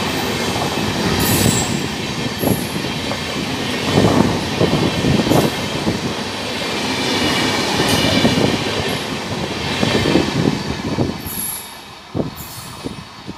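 Express train's passenger coaches rolling past at speed on a curve, wheels clattering over rail joints with a faint high squeal from the wheels rounding the curve. The noise falls away sharply near the end as the last coach passes.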